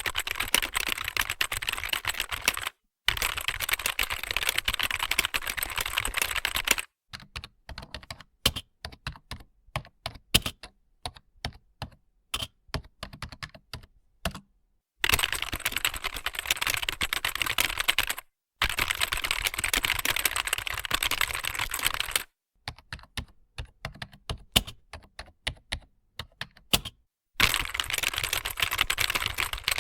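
Computer keyboard typing sound effect: stretches of fast, continuous key clatter lasting a few seconds each, alternating with slower, scattered single key presses.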